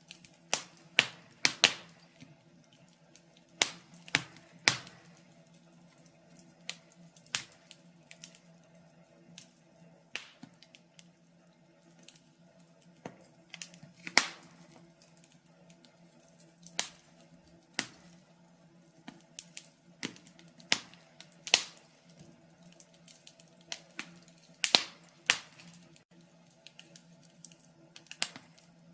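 Wood fire crackling: irregular sharp pops and snaps, now and then a louder one, over a faint low hum.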